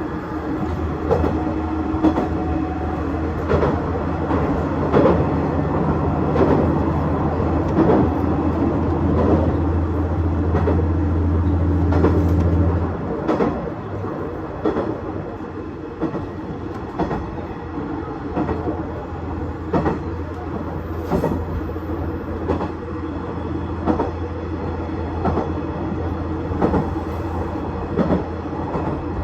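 KiHa 110 series diesel railcar running along the line: its diesel engine pulls under power with a steady low drone, then throttles back about halfway through and the drone drops, returning more quietly a few seconds later. Wheels give irregular clicks over the rail joints throughout.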